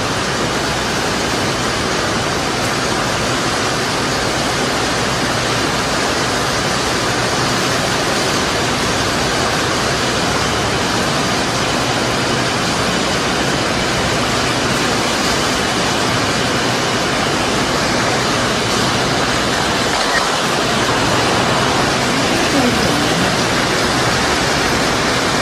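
Steady, loud rushing noise of a rainstorm, rain and wind, on a phone microphone.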